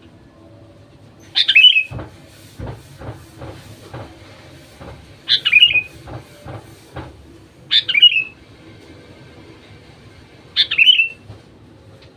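Sooty-headed bulbul (kutilang) giving four short, loud calls a few seconds apart, each a quick falling phrase, with soft knocks between them.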